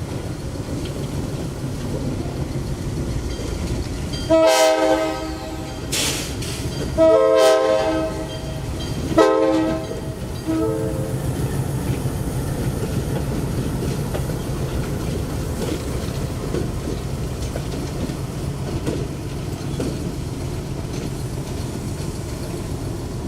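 Diesel locomotive horn sounding a series of blasts, two long ones followed by shorter ones, over the steady rumble of a moving train on the rails.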